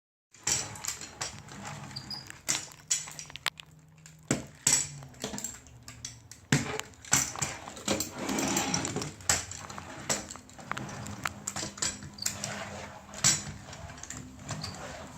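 Irregular clicks, knocks and rattles of a plastic toy truck being handled and pushed around.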